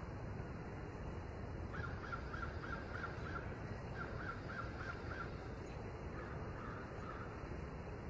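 A bird calling in three short runs of quick repeated notes, about three notes a second, over steady background noise.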